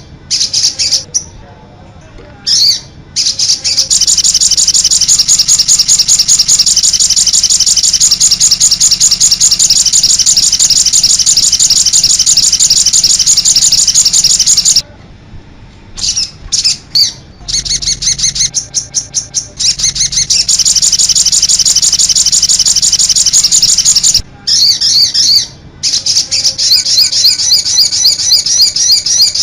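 Songbird song: long, rapid, high-pitched trills of quickly repeated notes, broken by short pauses about two seconds in, around fifteen seconds and around twenty-five seconds.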